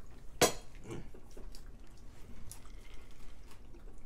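Close-up mukbang eating sounds: chewing and small wet mouth smacks and clicks from people eating saucy chicken wings, with one sharp, loud smack about half a second in.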